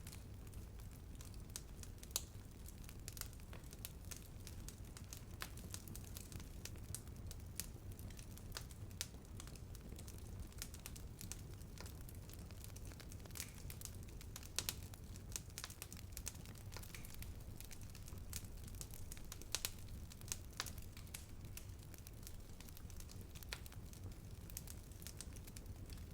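Wood fire burning: a steady low rumble with irregular crackles and occasional louder pops of burning wood.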